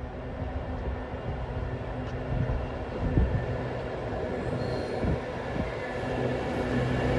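Train approaching on the line: a steady low rumble with a held hum that grows louder toward the end.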